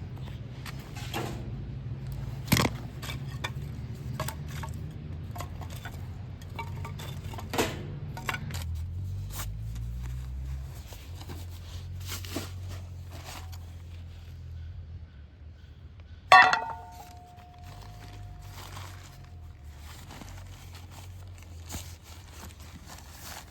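Camp gear being handled: scattered knocks and clinks. About sixteen seconds in comes one sharp metal clank that rings on for a few seconds. A low rumble runs underneath for the first half.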